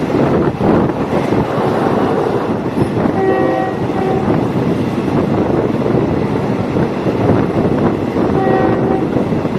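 Diesel multiple unit train running along the track with a steady rumble, its horn sounding a short blast about three seconds in, a brief toot just after, and another blast near the end.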